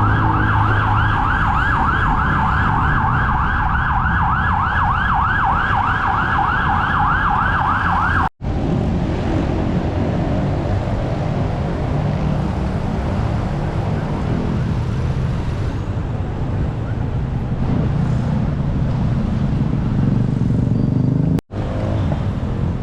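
Emergency vehicle siren in a fast yelp, quick rising sweeps repeating several times a second, cut off abruptly about eight seconds in. Steady road traffic noise follows, with another abrupt cut near the end.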